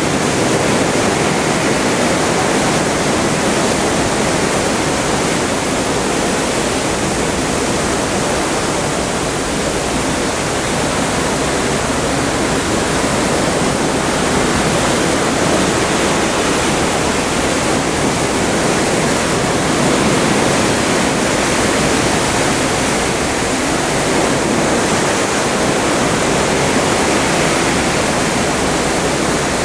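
Open Atlantic seawater rushing past a moving ship: a steady, even rush of water that rises and falls only gently in loudness.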